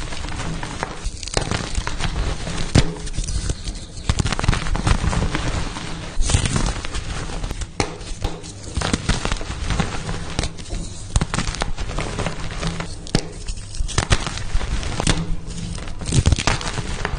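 Pasted (reformed) gym chalk blocks being crushed by hand, a dense run of crisp crunches and crumbling crackles that comes in clusters every second or two.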